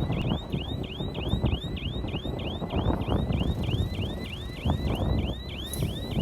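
Komatsu bulldozer's diesel engine running with a heavy, uneven rumble as it works, under a rapid, regular high chirping that repeats about three to four times a second.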